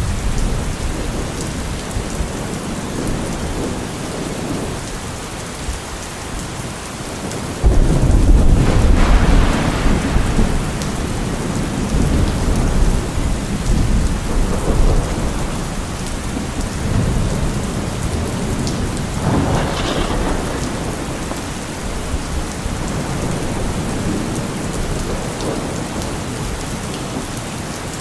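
Steady rain falling, with thunder. A sudden loud clap about a third of the way in rumbles on for several seconds, and a second, weaker rumble comes about two-thirds of the way through.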